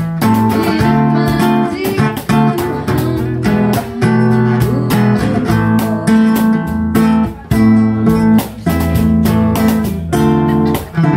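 Music led by a strummed acoustic guitar, with steady chords and frequent regular strokes.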